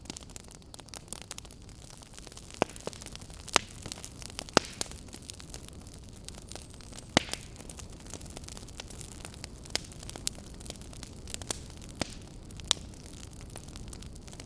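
Campfire crackling: a steady low hiss with irregular sharp pops, a few of them much louder than the rest.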